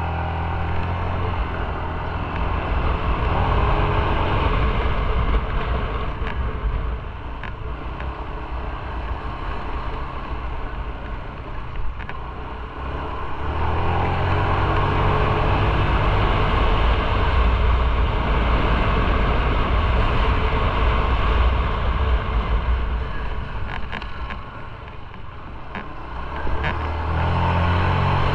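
Motorcycle engine running under way with steady wind noise on the microphone. The engine note grows louder as the bike pulls harder about 13 s in and again near the end.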